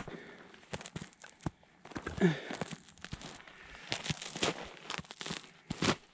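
Footsteps crunching through snow on a frozen pond: a run of irregular crunches and scrapes.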